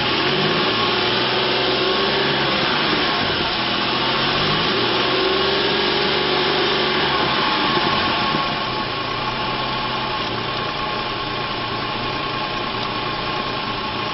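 The 4.2-liter V6 of a 2007 Ford F-150 running. Its pitch rises and falls gently twice, then it settles to a steadier, slightly quieter idle about eight seconds in.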